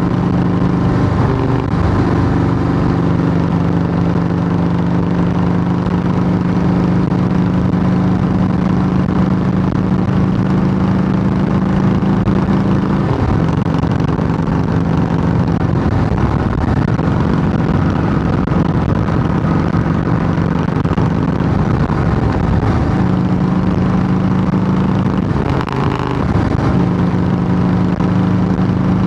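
Harley-Davidson Softail Heritage Classic's air-cooled V-twin running steadily through Samson fishtail true dual exhaust pipes. Its note shifts in pitch a few times, with a brief dip in loudness near the end.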